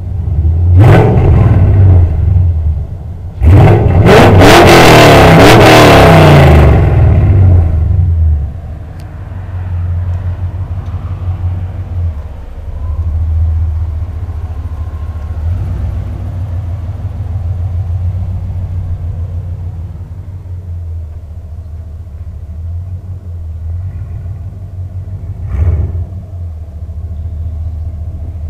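LS1 5.7-litre V8 with an aftermarket muffler exhaust revved hard, once briefly and then for about four seconds, before settling into a steady low idle rumble with one short blip near the end.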